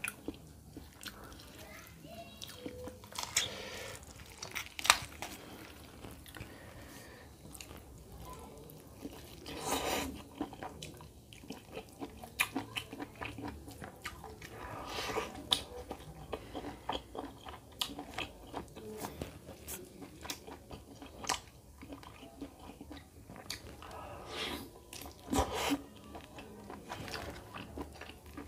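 Close-up eating sounds of a mouthful of chicken curry and rice: wet chewing and lip smacks with many short sharp clicks, and a few longer, louder stretches of crunching at about ten, fifteen and twenty-five seconds in.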